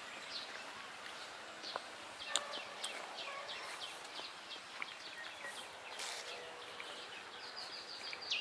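Quiet outdoor ambience with birds chirping: short, falling high chirps repeated on and off, with a few faint clicks. A thin, steady high tone joins near the end.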